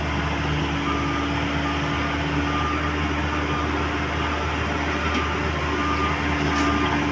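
Komatsu PC130 excavator's diesel engine running steadily, a constant low drone with a steady hum above it.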